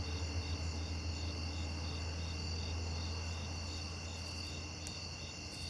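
Crickets trilling steadily, with one chirping in regular pulses about twice a second, over a steady low rumble.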